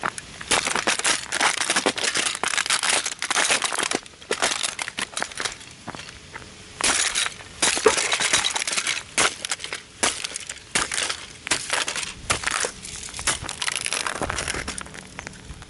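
A die-cast Jaguar model car being stomped and crushed under rugby/football cleats: repeated crunching and cracking of metal, plastic and window pieces, with small parts clinking.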